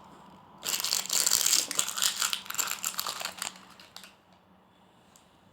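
Plastic toy packaging crinkling as it is handled, a dense rustle for about three seconds that dies away about four seconds in.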